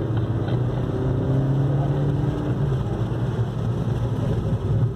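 Suzuki Swift Sport's 1.4-litre BoosterJet turbocharged four-cylinder heard from inside the cabin under acceleration. The engine note rises in pitch for about a second and a half, then holds steady, over road noise.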